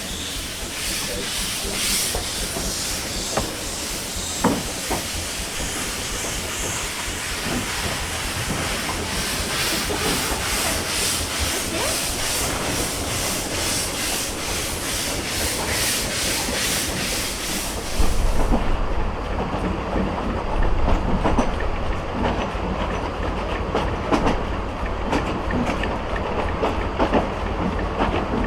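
Vale of Rheidol narrow-gauge steam train under way: the locomotive chuffing in even beats over a steady steam hiss. About two-thirds of the way in the sound changes suddenly to a low rumble from the carriages with the clicking of wheels over rail joints.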